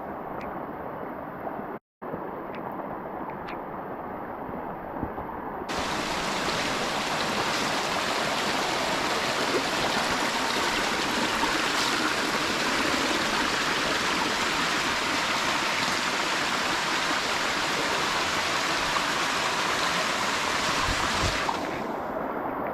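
Rushing water of a rocky waterfall and stream, a steady hiss. It drops out for an instant about two seconds in and gets louder and brighter about six seconds in.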